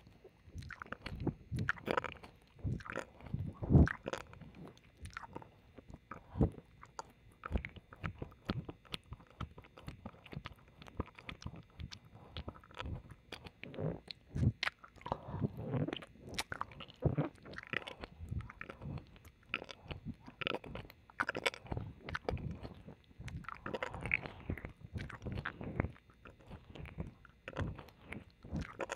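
Close-up ASMR ear licking and kissing: irregular wet licks, smacks and mouth clicks right at the microphone on the left side, the loudest about four seconds in.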